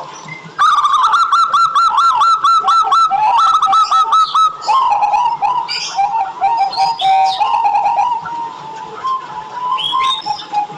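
Zebra doves (perkutut) calling: from about half a second in, a fast run of short repeated notes, then a lower stretch of quick staccato cooing notes.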